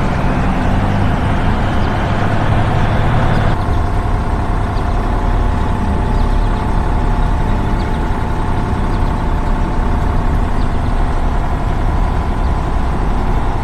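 Heavy truck engine running steadily, a stock sound effect, with a hissing layer on top that drops away about three and a half seconds in.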